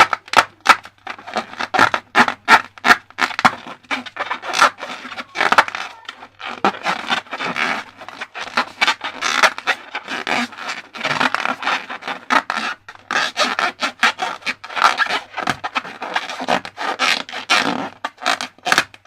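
Slime being squished, stretched and kneaded by hand, giving a dense run of irregular wet clicks and squelches.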